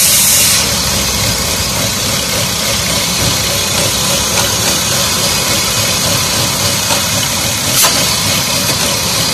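Car engine idling with the oil filler cap off. A loud hiss cuts off about half a second in as the cap comes away, and there is a single sharp click near the end. The engine is pulling strong suction at the oil filler neck, which the mechanic treats as a positive crankcase ventilation (PCV) fault.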